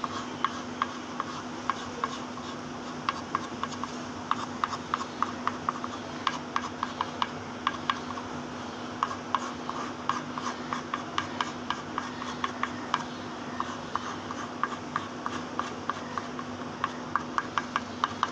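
Quick, short drawing strokes on paper, ticking in irregular runs of several a second with brief pauses, over a steady low hum.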